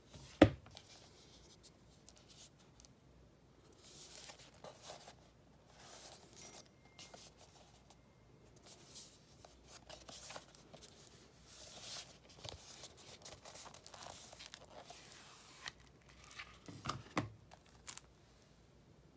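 Blu-ray packaging and discs being handled: scattered rustling, sliding and tearing of paper or plastic, with light knocks, and one sharp knock about half a second in.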